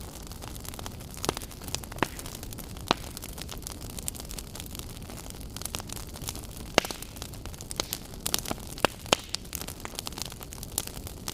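Wood campfire crackling: irregular sharp pops and snaps of burning wood over a steady low hiss.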